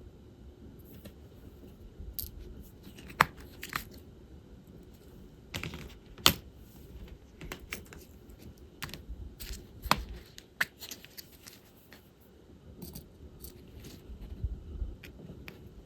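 Irregular small clicks and taps of diamond-painting work: a drill pen picking up plastic resin drills and pressing them onto the adhesive canvas. A few sharper clicks stand out among the quieter taps.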